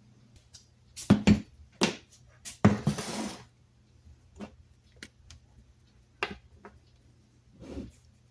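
Hard metal parts being handled and set down: a few sharp clanks in the first three seconds, a short scraping slide around three seconds in, then lighter scattered clicks and taps.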